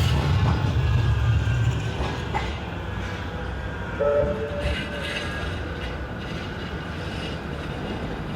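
Manchester Metrolink M5000 tram running along street track, a loud low rumble with a few wheel clicks that fades after about two seconds as it moves away. A short two-note tone sounds about four seconds in.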